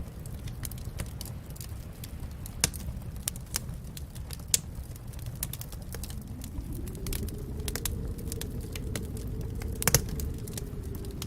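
Wood fire in a fireplace crackling and popping with irregular sharp snaps over a low steady rumble of flames. Partway through, the flames' low rush swells, and the loudest pop comes about ten seconds in.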